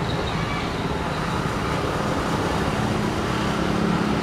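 Loaded fuel tank wagons of a freight train rolling past on the rails: a steady rumble and rush of wheels on track. A low hum grows stronger in the second half.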